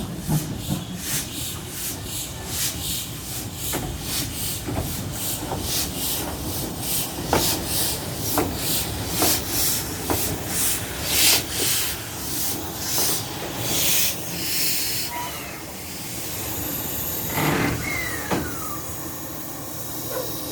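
Steam locomotive chuffing in an even rhythm, about two exhaust beats a second, followed by a longer release of hissing steam.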